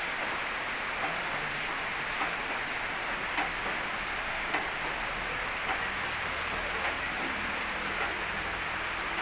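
Steady rain hiss, with a single louder drip or tap landing about once a second.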